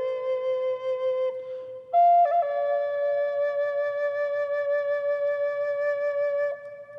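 Solo Native American flute music with slow, long-held notes. One note gives way about two seconds in to a higher one, with a quick grace-note flourish. That note is held until it fades near the end.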